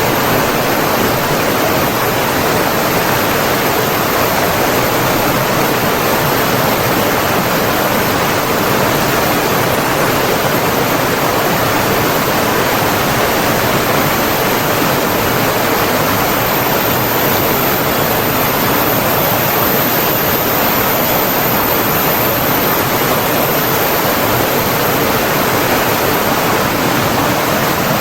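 Rushing water of a forest stream or small waterfall, a loud, steady, unbroken wash.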